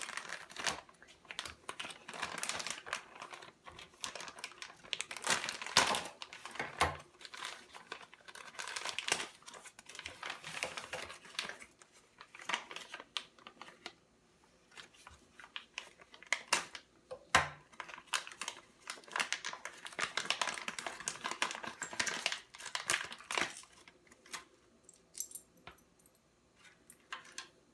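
Packaging being unwrapped by hand: irregular crinkling and rustling with some tearing, and a couple of light knocks. It eases off in places and goes quiet near the end.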